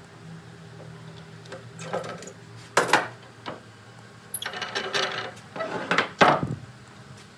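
Woodworking shop sounds: wood and tools being handled, with a few knocks and short scraping noises about two, three, five and six seconds in, over a low steady hum.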